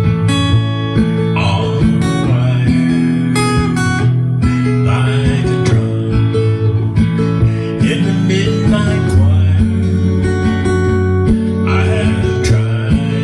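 Acoustic guitar playing chords, struck repeatedly with notes ringing on between strokes.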